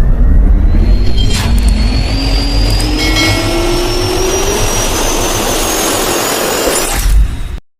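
Jet airliner engines running with a whine that rises steadily in pitch over a heavy low rumble. The sound cuts off abruptly near the end.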